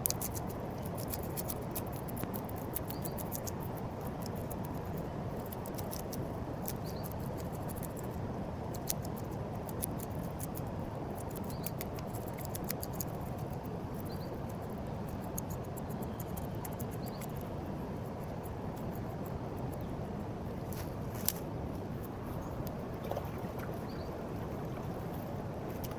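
Knife scraping and cutting a small piau fish as it is cleaned for frying: quick, irregular scratchy clicks over a steady rush of river water.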